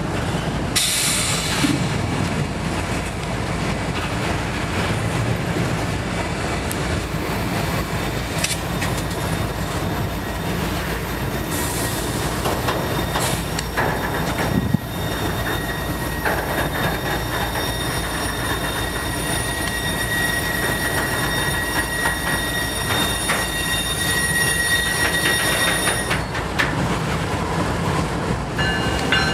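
Two CSX freight trains passing each other. Double-stack intermodal cars rumble and clatter by while an autorack freight led by GE diesel locomotives closes in slowly. A steady high-pitched wheel squeal rises over the rolling noise through the second half.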